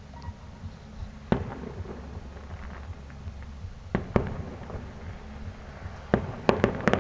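Fireworks going off: a single sharp bang about a second in, two more close together around four seconds, then a rapid run of crackling bangs from about six seconds on.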